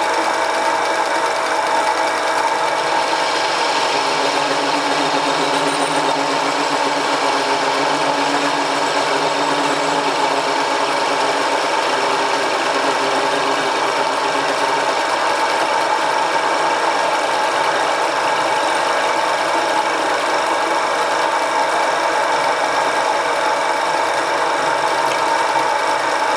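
Homemade mini lathe running under its 1 hp (750 W) single-phase electric motor: a steady mechanical whir with several constant tones. The higher hiss brightens about three seconds in.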